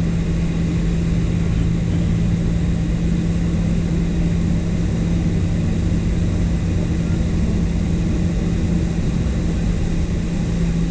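Steady cabin drone of a Boeing 737-800 heard from inside, a constant low hum with one strong held tone and no change in pitch or level.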